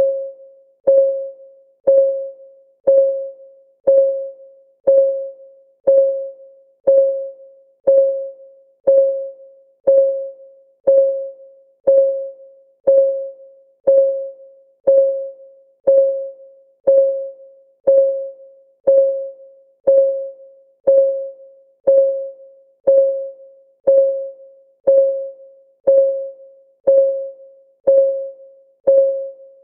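Clock ticking sound of a countdown timer: one short, pitched tick every second, each starting sharply and dying away quickly, steady throughout.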